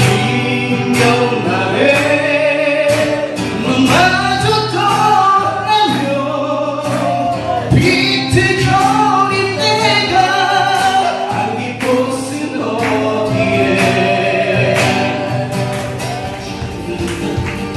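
Several voices singing a song together over strummed acoustic guitars.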